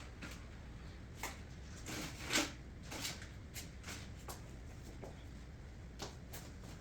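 Soft rustling and scattered light taps of hands handling objects, the loudest rustle about two and a half seconds in.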